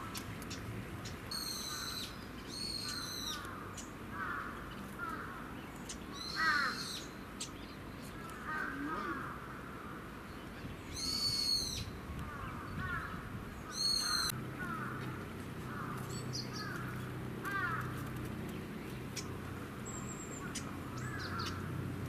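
Wild birds calling: a few loud, high calls, two of them paired near the start, and many short soft chirps repeating throughout.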